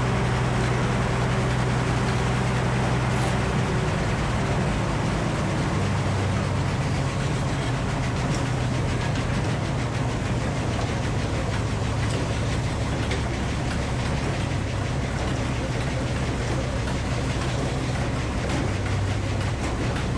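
Frick circular sawmill running steadily under its engine, with a low hum whose pitch shifts slightly about three and a half seconds in.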